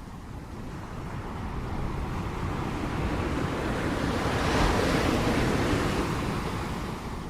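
Ocean waves on a shore: the surf swells to a crash about four to five seconds in, then washes back down, over a steady low rumble.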